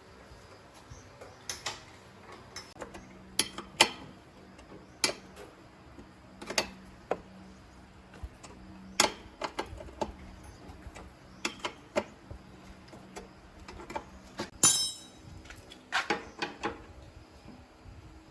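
Irregular clicks and knocks of hand tools and metal parts being handled during work on a motorbike, with one louder metallic clink that rings briefly near the end.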